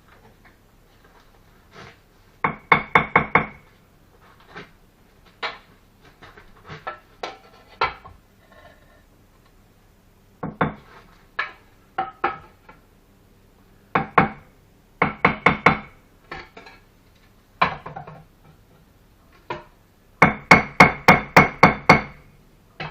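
Bricks being tapped down into their mortar bed: several bursts of quick knocks with a brief ring, about five a second, the longest near the end, with single taps in between.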